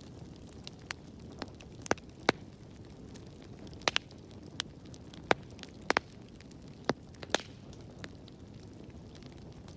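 Wood fire burning in a fireplace: a steady low rumble with irregular sharp crackles and pops, about a dozen in all, clustered between about two and seven and a half seconds in.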